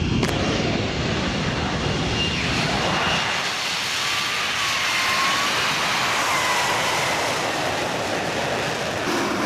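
The Pratt & Whitney F135 jet engine of an F-35B running loudly and steadily, a dense rushing noise with faint high whining tones that slide in pitch.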